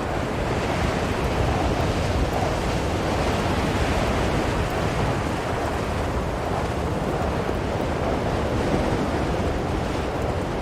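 Blizzard wind blowing steadily, a dense rushing noise that swells and eases a little every few seconds.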